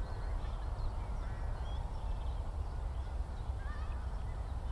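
Open-country ambience: birds call in short, scattered chirps and wavering phrases over a steady low rumble.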